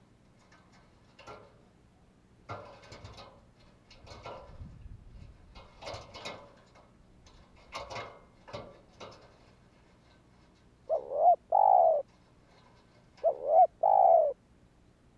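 Spotted dove cooing: two loud phrases near the end, each a short coo followed by a longer one. Before them come several seconds of irregular scratchy rustling.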